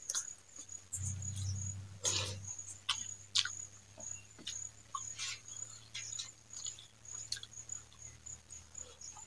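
Close-miked eating sounds: wet chewing and lip-smacking clicks of a mouthful of rice and fried greens, with fingers squishing and mixing rice on a steel plate.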